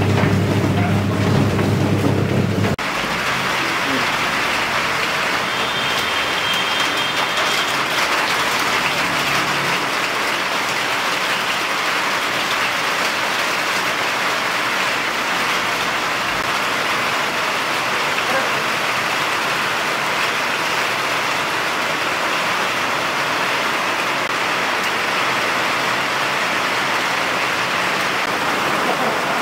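Steady heavy rain, a dense even hiss. A loud low hum runs with it for the first few seconds and cuts off abruptly.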